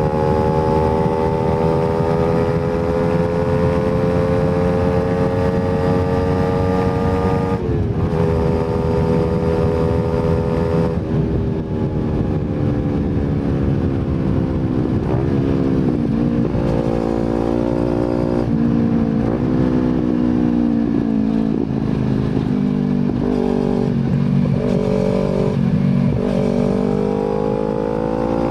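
Kawasaki Z250 engine running through an aftermarket slip-on silencer while riding. The note climbs slowly, breaks off sharply for a moment about eight seconds in, as at a gear change, then falls and rises several times in the second half before climbing again near the end.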